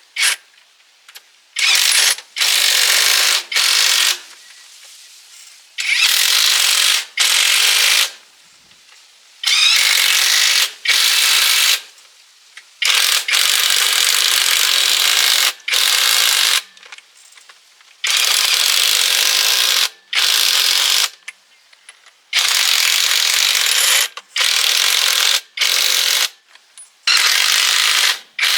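A power tool running in repeated bursts of half a second to two seconds, each starting and stopping abruptly, with short pauses between.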